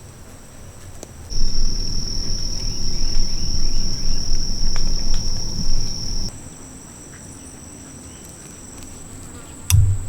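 A chorus of insects trilling steadily at a high pitch, with one louder trill joined by a low rumble for about five seconds in the middle, then a couple of dull thumps near the end.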